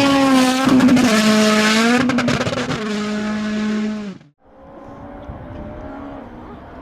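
Rally car engine at high revs, loud, its pitch dropping as it passes, then cutting off abruptly about four seconds in; a quieter, more distant rally car engine follows.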